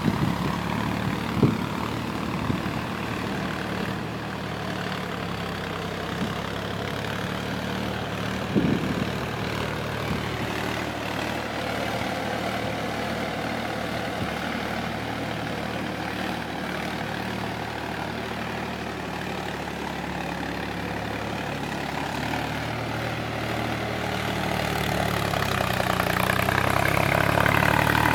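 Tractor engine running steadily, with a couple of brief knocks in the first nine seconds, getting louder over the last few seconds.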